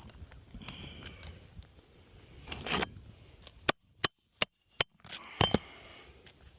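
Pneumatic roofing nailer driving nails into asphalt 3-tab shingles: four sharp shots in quick succession, about three a second, then two more hits, after some shingle handling.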